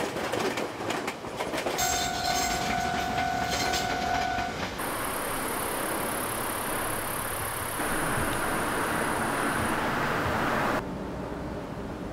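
Electric commuter train passing close by, its wheels clacking over the rail joints, then a steady tone lasting about two and a half seconds. About five seconds in the train sound gives way to a steady high-pitched hiss of outdoor ambience, which drops away suddenly near the end.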